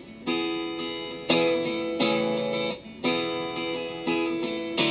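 Instrumental break in a country-style song: acoustic guitar chords strummed about once a second, each ringing out before the next, with no singing.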